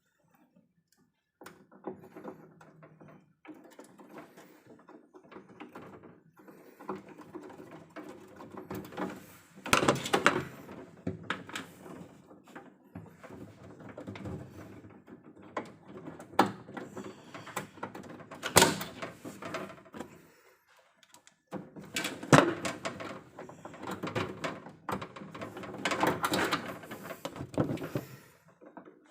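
Irregular clicking, knocking and rattling of hand work on cables and fittings in an electrical distribution panel, with several louder clatters and a short pause about twenty seconds in.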